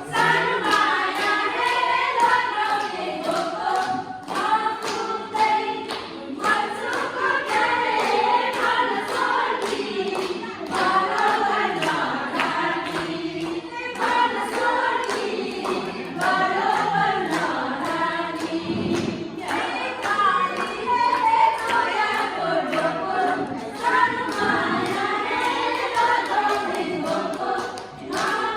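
A group of people singing together, unaccompanied, with a steady beat of sharp strikes keeping time.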